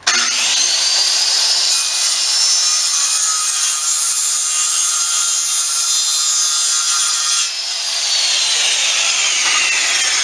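Electric power saw cutting wood: the motor spins up at the start and runs steadily through the cut. About three quarters of the way in it is released and winds down with a slowly falling whine. It is trimming a piece of lumber in small nibbles to press-fit it into the wall framing.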